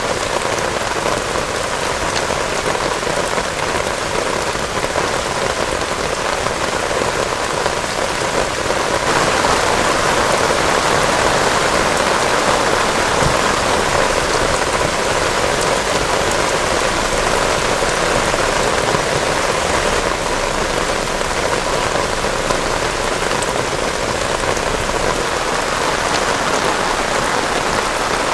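Heavy rain falling steadily, growing a little louder about nine seconds in.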